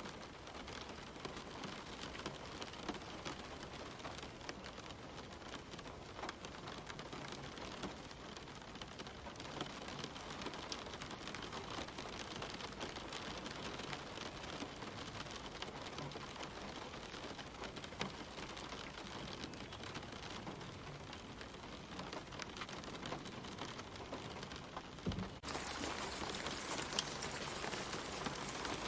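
Steady gentle rain falling on leaves and ground, many small drops pattering. About 25 seconds in, the sound abruptly turns louder and brighter.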